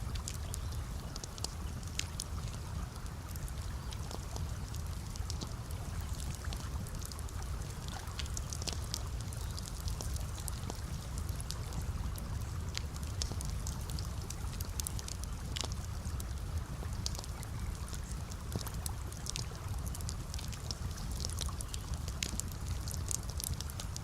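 Campfire crackling: irregular, sharp pops and snaps over a steady low rumble.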